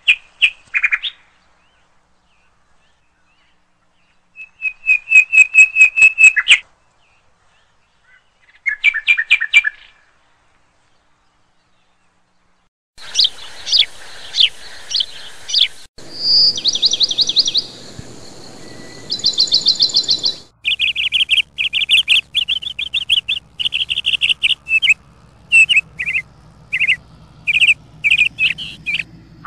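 Small birds chirping and trilling in fast runs of repeated high notes. The calls come in separate short stretches broken by abrupt cuts and a few seconds of dead silence, then become near-continuous calling from about halfway through.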